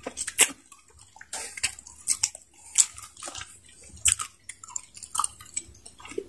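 Two people biting and chewing pieces of ripe rock melon (cantaloupe): a run of short, irregular mouth clicks and smacks.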